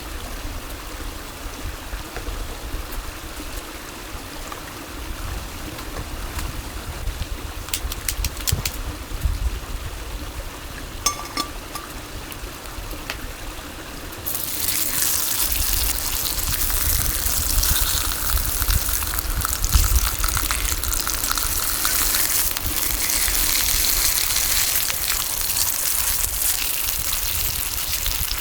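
Running water, a steady rush with low rumbling underneath; about halfway through it switches abruptly to a louder, hissier rush.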